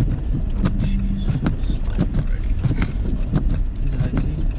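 Car driving on a snow-covered road, heard from inside the cabin: a steady low road rumble with frequent irregular knocks and thumps from the tyres and underbody over the snow.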